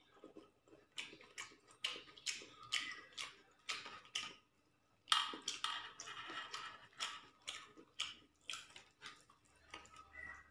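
Chewing a mouthful of rice and chicken curry, heard as a quick, irregular run of short wet clicks, along with fingers mixing rice on a steel plate.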